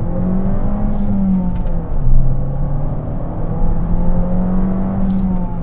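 Fiat 500 Abarth's turbocharged 160-horsepower inline-four accelerating hard, heard from inside the cabin: the revs climb, drop at an upshift about two seconds in, then climb again through the next gear.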